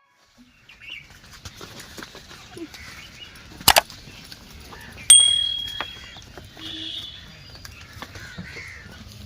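Outdoor farmyard background with scattered bird chirps. There is a sharp knock a little over three and a half seconds in, and a short, steady, high-pitched tone about five seconds in.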